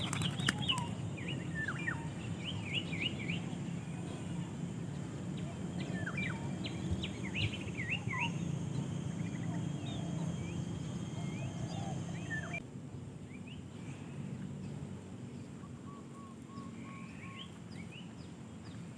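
A songbird calling in short, quick chirps and falling sweeps over a steady low hum. The calls grow sparser in the last third.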